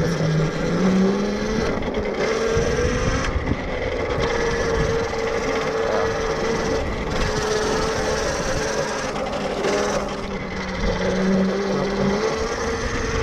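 Tuttio Soleil 1 electric dirt bike's motor whining as it rides along, over a steady rushing noise. The whine rises in pitch as the bike speeds up about a second in, holds steady, then dips and rises again near the end.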